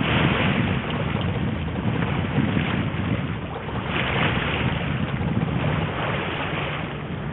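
Steady wash of water along a sailing yacht's hull under way, with wind rumbling on the microphone.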